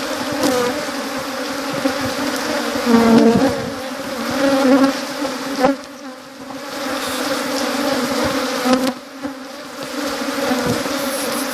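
Honeybees at the hive buzzing in a dense, steady hum, briefly dipping in loudness about six and nine seconds in.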